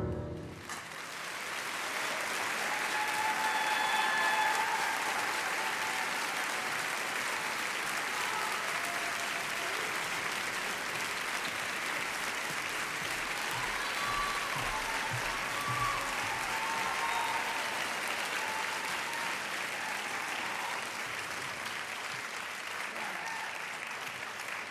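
Audience applauding steadily as the last piano note dies away, with a few voices calling out over the clapping.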